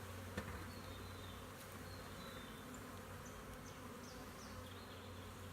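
Honey bees buzzing in a steady hum around an opened hive, the colony getting a little upset by the inspection.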